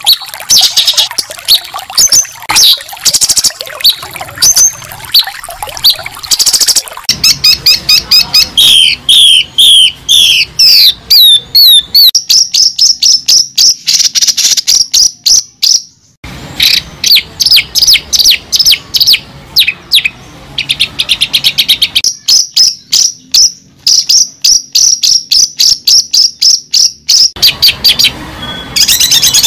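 Birds chirping and calling in rapid series of short, high chirps and sweeping notes. The pattern changes abruptly several times.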